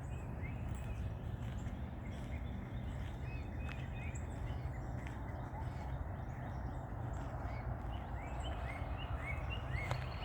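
Wild birds calling: short rising chirps repeated over and over, coming quicker in the last few seconds, over a steady low background rumble.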